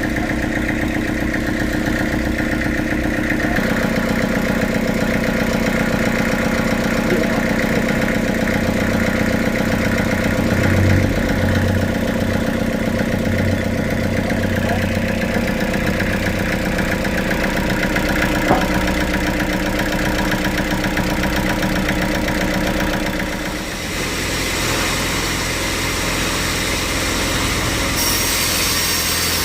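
Engine running steadily, its note shifting a few seconds in and again about six seconds before the end.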